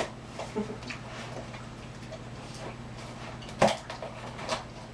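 Faint rustling and handling of a cardboard package and its contents, with one sharp knock a little past halfway through, over a steady low hum.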